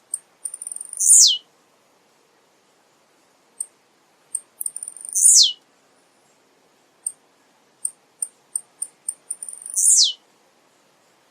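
Male blue-black grassquit (tiziu) singing: a run of short, very high ticks leads into a loud, falling song note. The phrase comes three times, about four to five seconds apart.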